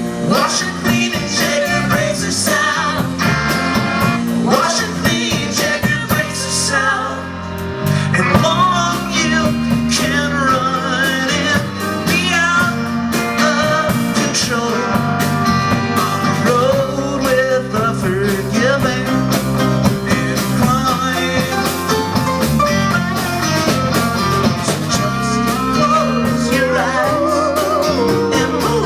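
A live Americana rock band playing a song, with guitar, bass and drums and a bending melody line over the top.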